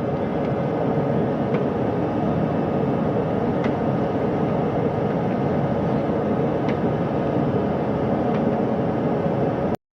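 Steady mechanical drone and rushing noise with a faint steady hum and a few light clicks, cutting off suddenly near the end.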